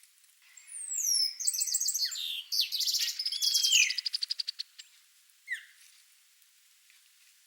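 Songbird of the blackbird family (icterid) singing: about four seconds of rapid whistled glides and fast trilled, repeated notes, followed a second later by a single downslurred note.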